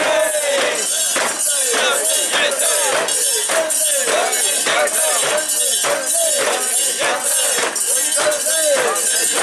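Mikoshi bearers chanting together as they carry the portable shrine, with its metal rings and fittings jangling in a steady beat about twice a second.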